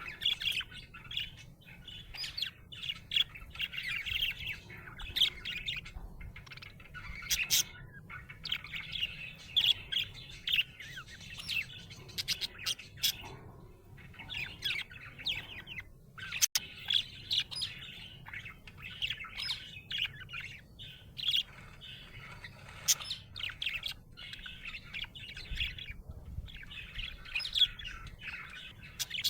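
Budgerigar chirping and warbling in quick, busy bouts broken by short pauses, with sharp clicks among the chirps.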